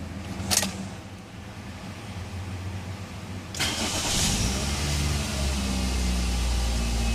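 Toyota Corolla XEi 1.8-litre four-cylinder engine being started from the driver's seat, with its cylinder head freshly reconditioned and reinstalled. A click comes about half a second in, and the engine catches suddenly about three and a half seconds in. It flares up briefly, then settles into a steady idle.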